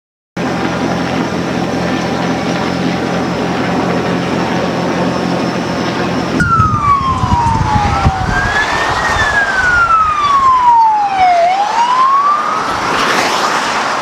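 A steady, loud, rumbling noise with a constant hum for about six seconds, then an abrupt change to a police siren wailing in slow rises and falls, with a second wail overlapping it.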